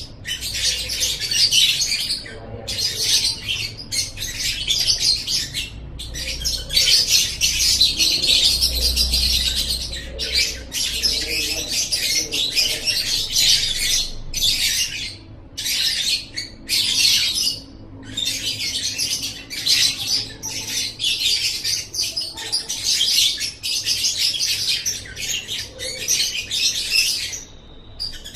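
Lovebird singing in long runs of rapid, high-pitched chattering, each run lasting several seconds and broken by brief pauses.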